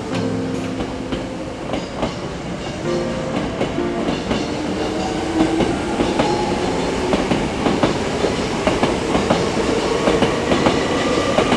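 Hankyu electric train running past, its wheels clicking over rail joints with a tone rising slowly in pitch; the clicks come faster and louder in the second half.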